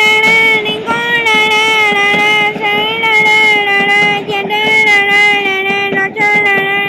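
FEVE narrow-gauge freight train with locomotives 1657 and 1651, giving out a loud, sustained high tone that wavers slightly and sags a little in pitch, over a steady patter of clicks.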